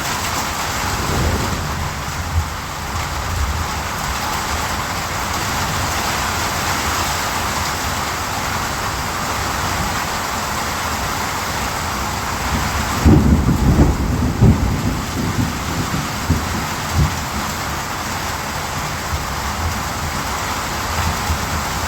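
Steady rain, with a low rumble of thunder a little past halfway.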